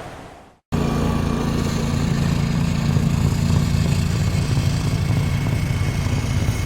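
A steady hiss fades out into a brief silence, and then an engine cuts in abruptly and runs steadily at a constant pitch.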